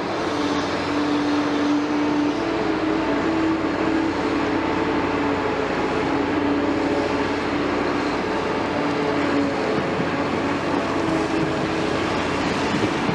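Liebherr R 946 hydraulic excavator working, its diesel engine running steadily with a droning hum of several held tones over a constant mechanical noise.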